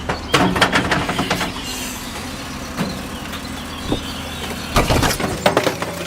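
A vehicle engine running steadily with a low hum. Sharp clicks and knocks come over it in clusters, in the first second or so and again about five seconds in.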